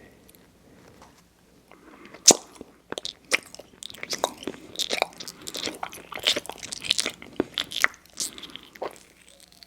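Close-miked mouth sounds of eating mochi ice cream: a sharp click about two seconds in, then a dense run of wet, sticky chewing smacks and clicks that fades near the end.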